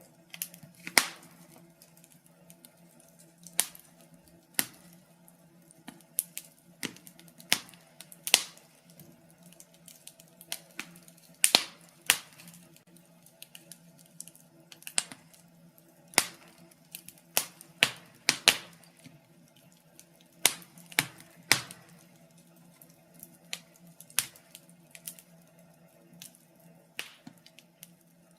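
Wood fire in a fireplace crackling, with sharp irregular pops about once or twice a second, some much louder snaps among them.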